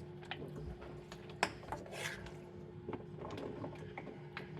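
Faint scattered clicks and rubbing of plates and food being handled during a meal.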